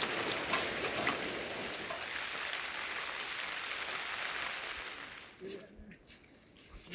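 Steady rain falling, with scattered sharper drop hits, that fades away about five seconds in.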